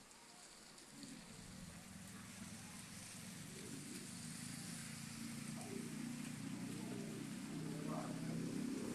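A motor vehicle's engine humming, growing steadily louder as it approaches.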